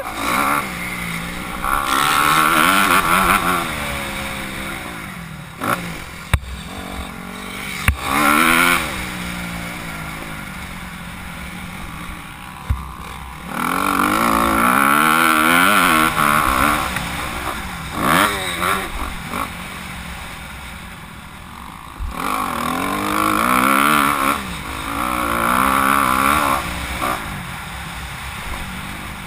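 Honda CRF250R motocross bike's four-stroke single-cylinder engine revving hard and backing off again and again, its pitch climbing and falling in waves through several loud surges, with a few short knocks between them.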